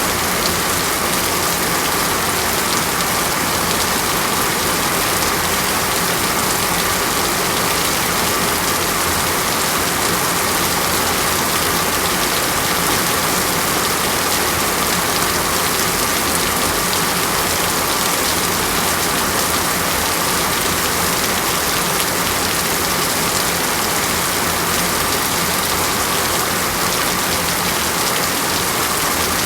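Steady rain falling on a surface: an even, unbroken hiss that does not change.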